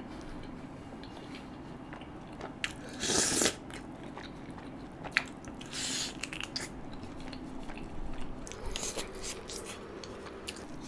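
Close-miked biting and chewing of gravy-covered butter chicken pieces, eaten by hand, with wet mouth sounds. There are louder bursts about three seconds and six seconds in.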